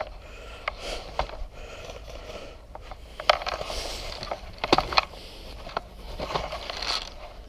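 Scattered clicks and knocks with scraping and rustling between them, the sharpest clicks a little past the middle.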